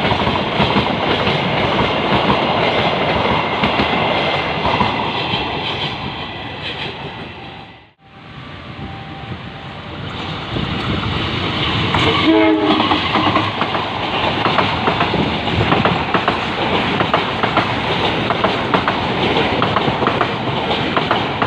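A train running past, with rumbling and rapid clacking of wheels over the rail joints. The sound fades out to nothing about eight seconds in and builds again. About twelve seconds in, a train horn sounds briefly, then the clattering and rumbling of passing wagons carries on.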